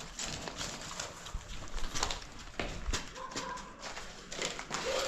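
A run of irregular clicks and knocks at uneven spacing.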